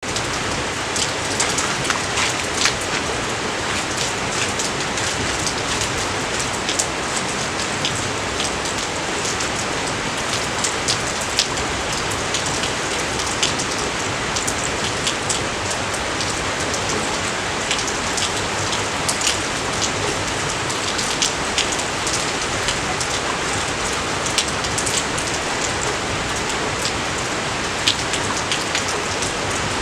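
Steady rain falling, an even hiss with many sharp individual drop ticks.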